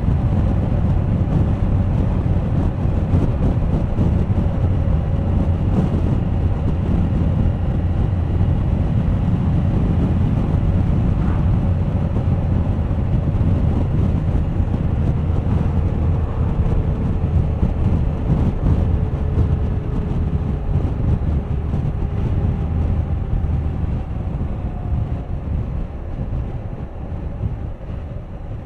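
Suzuki GSX1250FA's inline-four engine running at road speed under heavy wind rush on the microphone. A faint engine tone sinks slowly over the second half, and the sound gets quieter near the end.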